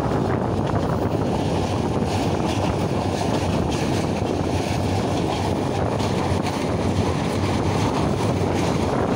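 Moving passenger train's steady running noise: wheels rumbling on the rails, heard from outside the carriage's open door or window, with wind rushing past the microphone.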